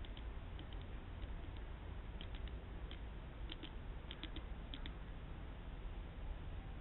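Small birds (tits and sparrows) pecking at a hanging seed bell: light, irregular taps, often two or three close together, that stop about five seconds in, over a steady low hum.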